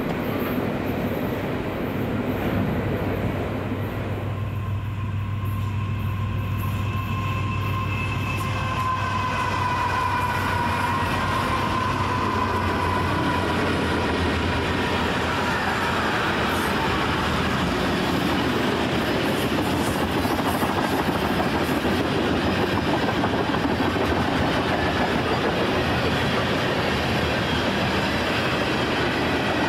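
Train rolling past: a diesel locomotive's deep engine drone for the first half, then the steady rumble and rattle of rail cars going by. A thin high tone sounds for several seconds in the middle.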